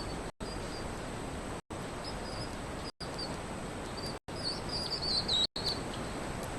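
Faint, high, thin chirping calls, bird-like, over a steady hiss, clustering more thickly about four and a half seconds in. The audio cuts out briefly several times.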